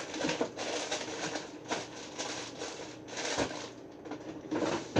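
Irregular rustling and handling noises, a scuffing crinkle about twice a second, from things being handled and moved about.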